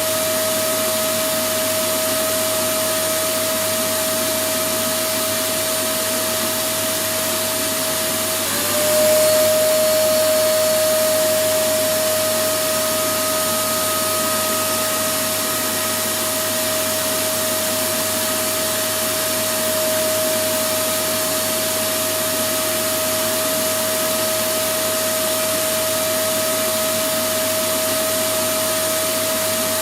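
Electric vacuum cleaner motor running continuously: a steady rushing hiss with a whine held on one pitch. About eight seconds in, the whine dips briefly and the sound swells slightly louder for a few seconds.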